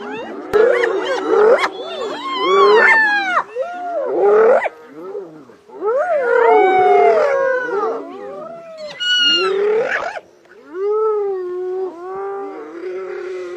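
Several wild animals calling over one another in loud, whining and yelping cries whose pitch bends up and down, in bouts broken by short pauses.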